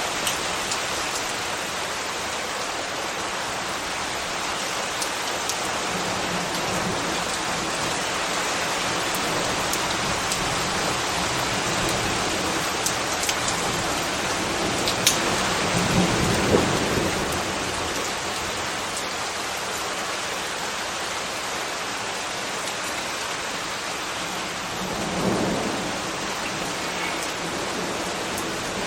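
Steady rainfall, an even hiss with scattered drip ticks. Two low rumbles swell and fade, one about halfway through and a shorter one near the end.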